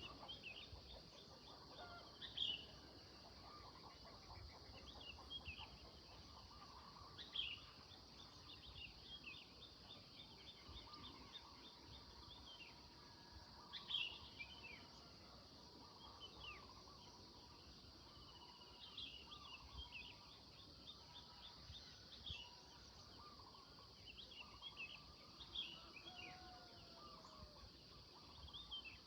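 Songbirds chirping, with short calls and rapid trills of repeated notes scattered throughout, over a steady high hiss.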